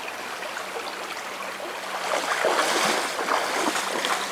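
River water running and babbling, a little louder from about two seconds in.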